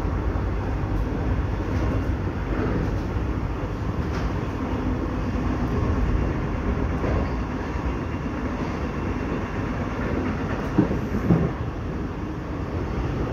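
Steady running rumble of a passenger train on the rails, heard from on board. Near the end come two short sharp knocks about half a second apart.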